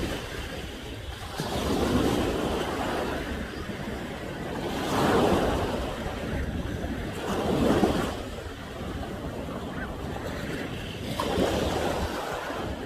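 Ocean waves crashing and washing against the shore at high tide, the surf swelling louder about four times, every few seconds.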